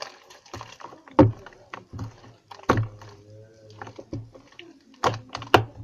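Overactivated, jiggly homemade slime being squished and poked by hand, giving a few sharp wet smacks and squelches, about four in all, over a faint hum.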